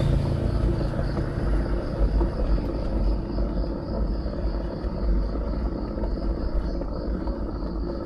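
Wind rumbling and buffeting on an action camera's microphone while cycling, with a faint high, pulsing insect buzz throughout. The tail of a louder passing sound dies away in the first moment.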